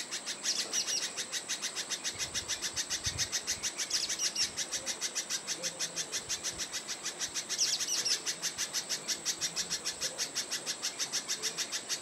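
Short high bird chirps every three to four seconds over a steady, rapidly pulsing high-pitched drone that runs throughout.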